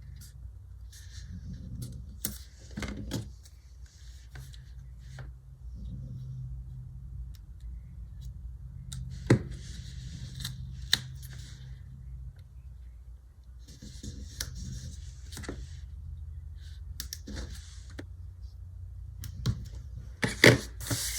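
Stickers and paper being handled on a planner page: soft rustling with scattered small clicks and taps, a few of them sharp, over a steady low hum.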